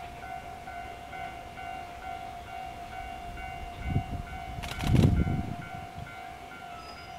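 Railway level-crossing warning bell ringing steadily in a pulsing pattern as the DE10 diesel-hauled train comes through. A low rumble swells about four seconds in, then louder about five seconds in with a burst of clattering.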